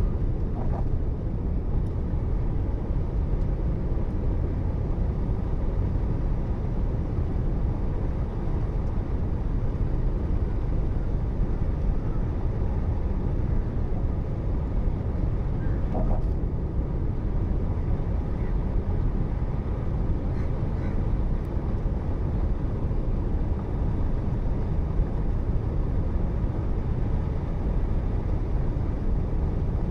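Car driving on the road: a steady low rumble of tyres and engine picked up by the dashcam's microphone, with faint short tones about a second in and again about sixteen seconds in.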